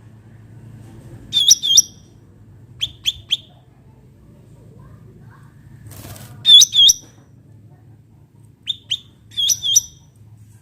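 Cucak ranting bird calling: short, sharp chirps in quick pairs and triplets, repeated every second or two, over a faint low hum. A brief hiss comes just before the loudest pair, about six seconds in.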